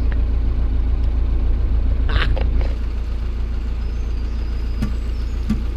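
Narrowboat's diesel engine running steadily at cruising speed, a loud low throb with an even beat. A short hiss breaks in about two seconds in.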